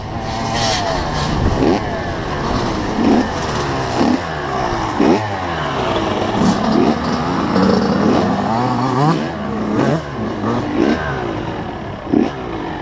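Two-stroke 85 cc motocross bike engine revving up and dropping back again and again while riding, the pitch climbing and falling about once a second as the throttle is worked and gears change.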